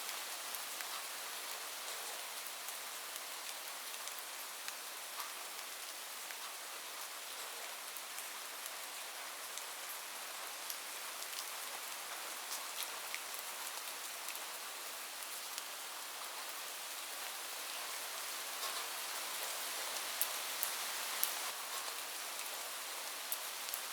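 Heavy rain falling on a roof: a steady hiss with scattered sharper drop ticks, a few louder ones near the end.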